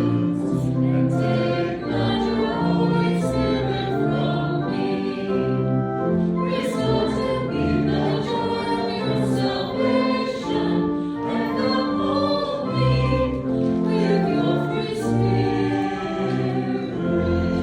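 Church congregation singing a hymn together with instrumental accompaniment, sustained chords under the voices.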